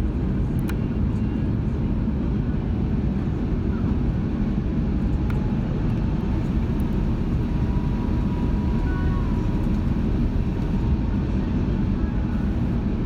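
Steady cabin roar of an Airbus A340-600 with four Rolls-Royce Trent 500 engines, engine and airflow noise heard inside the cabin, with a few faint clicks.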